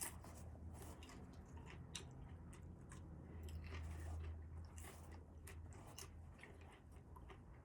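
A person chewing crunchy food close to the microphone, with irregular small crunches and clicks, over a low steady hum.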